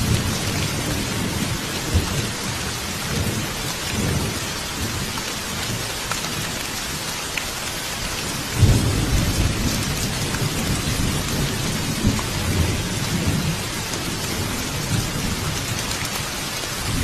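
Steady rain falling in woods, with low rumbles that swell and fade underneath, the strongest about halfway through.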